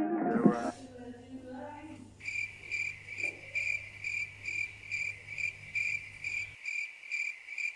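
Cricket chirping: a steady run of evenly spaced chirps, about two and a half a second, beginning about two seconds in as the tail of music fades out.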